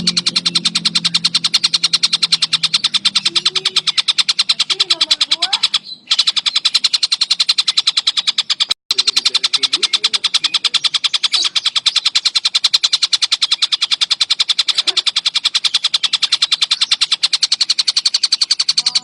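Tengkek buto bird giving a long, fast, rattling trill of rapidly repeated high notes. The trill breaks off briefly twice, around six and nine seconds in.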